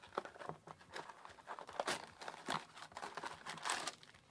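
Foil trading-card booster packs being torn open and crinkled, with cards handled in between: a run of short rustles and tears, the longest and loudest near the end.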